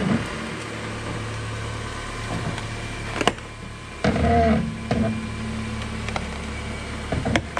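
Honda car engine idling steadily in drive as the car creeps forward on its own, with no throttle. A sharp click sounds a little past three seconds, and a brief squeak comes about four seconds in as the front tire rolls onto the turn plate.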